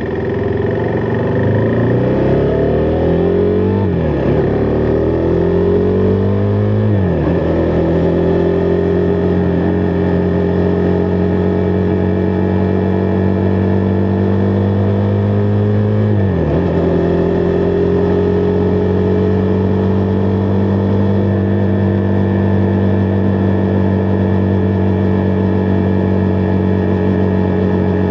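Husqvarna Vitpilen 401's single-cylinder engine accelerating, rising in pitch and dropping sharply at two gear changes in the first seven seconds, then running steadily at cruising speed, with one more quick shift about halfway through.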